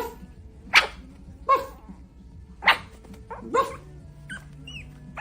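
A dog barking in short single barks, about five of them less than a second or so apart, with a few softer, higher calls near the end.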